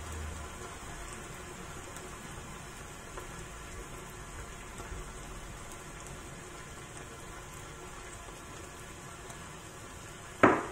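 Diced chicken and chips sizzling steadily in frying pans, with one short, loud knock near the end.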